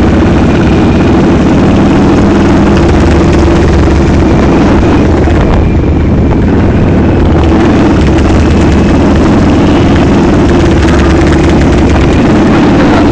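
Motorcycle engine running loud and steady under way, holding an even engine note throughout.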